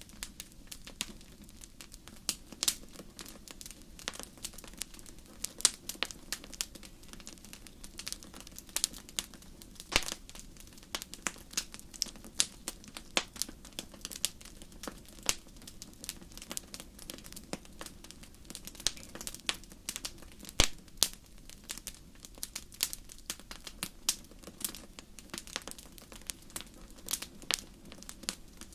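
Wood fire crackling in a fireplace: irregular sharp pops and snaps, several a second with an occasional louder one, over a steady low rumble.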